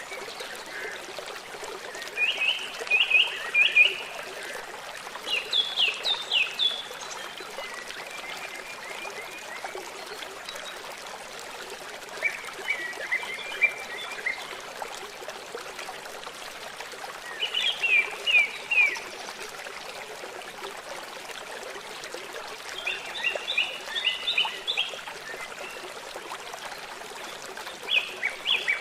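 River water flowing steadily, with a songbird repeating a short phrase of quick chirping notes every few seconds.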